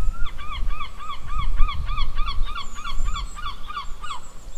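A bird calling in a fast run of repeated, evenly spaced calls, about three to four a second, stopping about four seconds in, over a low rumble.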